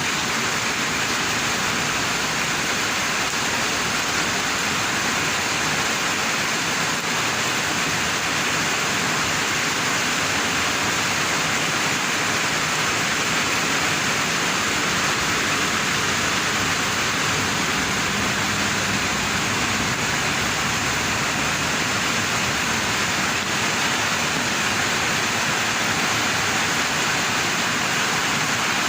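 Rain falling steadily in strong wind, an even, unbroken hiss.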